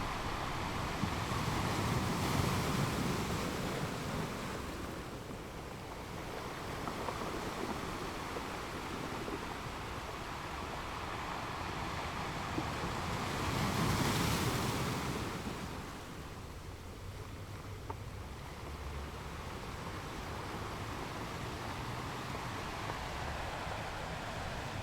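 Ocean waves breaking on a beach: a steady wash of surf with two swells, a few seconds in and a stronger one about halfway through, each fading back.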